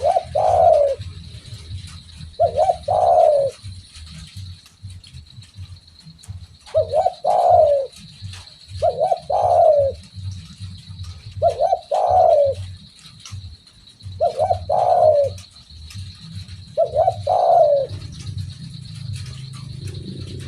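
Spotted dove (derkuku) calling repeatedly: seven cooing phrases a few seconds apart, each a short note followed by a longer, falling coo. A steady high hiss runs underneath.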